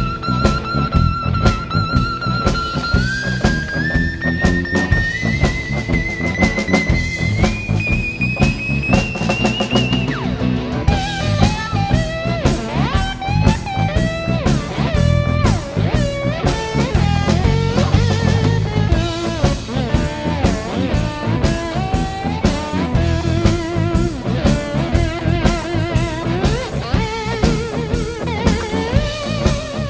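Instrumental blues break: a slide guitar solo over bass guitar and drum kit. For about the first ten seconds the lead holds one note with vibrato and slides it upward in steps, then breaks into quicker gliding phrases.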